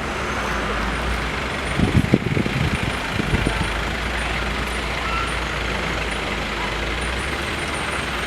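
Air-conditioned bus hissing steadily over a low engine rumble in traffic, with a few low knocks about two seconds in and again just after three seconds.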